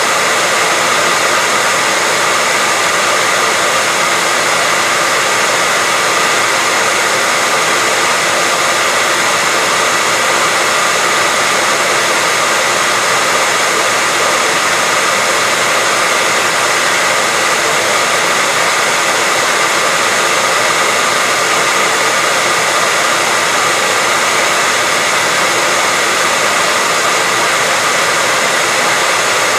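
Hair dryer running steadily: a constant, even rushing whir with a faint steady whine in it, never changing.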